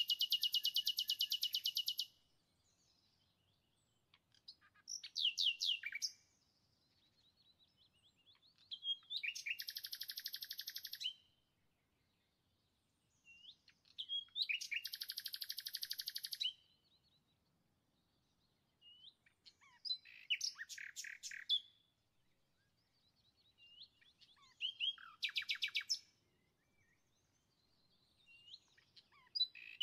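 A songbird singing: trilled phrases of one to two and a half seconds, each a fast run of repeated high notes, come every four to five seconds, with short chirps between them.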